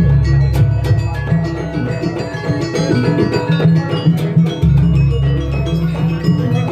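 Javanese jaranan-style dance music: drums and pitched mallet percussion, gamelan-like, playing a busy, steady rhythm.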